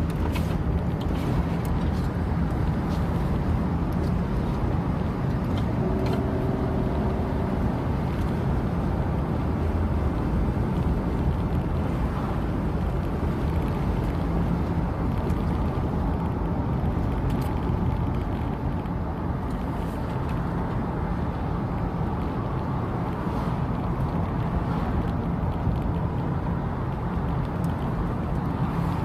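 A car driving steadily uphill, with a continuous low engine hum and road noise heard from inside the car. A short pitched sound comes through about six seconds in.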